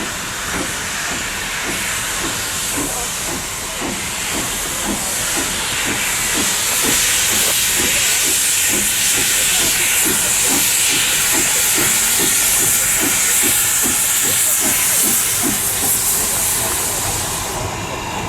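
Steam locomotive letting off steam in a loud hiss that swells about six seconds in and stops abruptly near the end, over a light regular beat of about two to three a second.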